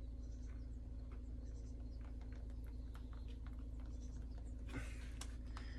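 Quiet room tone with a steady low hum. Faint, scattered small ticks and taps begin about two seconds in, and a brief soft rustle comes near the end.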